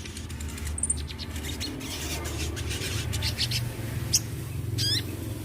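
A sogon, a small sunbird, singing in a rapid run of thin, high chirps and ticks, with a few quick zigzag whistled phrases near the end. A steady low hum sits underneath.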